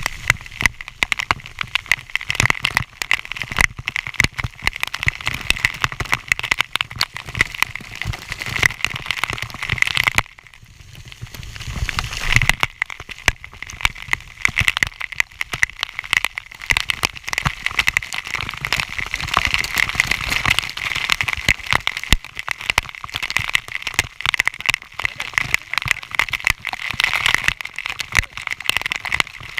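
Waterfall water pouring and splashing, with a dense patter of drops hitting close to the microphone. It eases briefly about ten seconds in, then comes back as strong.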